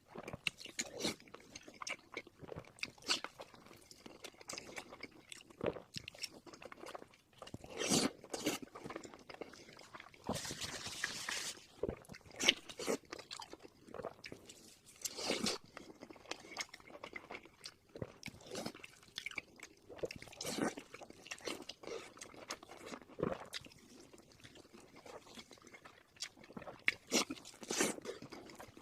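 A person chewing and crunching fried pork in chili sauce close to the microphone, with irregular bites and chews. About a third of the way in there is a longer rustling, crackling stretch.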